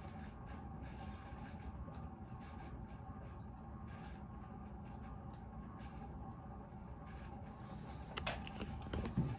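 Moss Tropical Breeze ceiling fan running slowly on high speed, its worn bearings making a steady scratchy rubbing noise over a faint motor hum; the owner suspects a failing capacitor for the slow speed. A few louder knocks come near the end.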